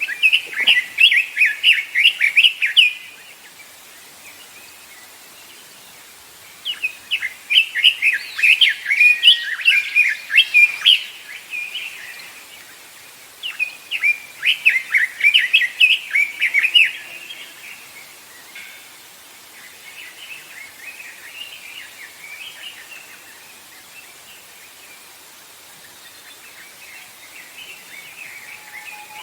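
Songbird singing in the forest: three loud phrases of rapid, high chirping notes, each lasting a few seconds with short pauses between. Fainter, more distant phrases follow in the second half.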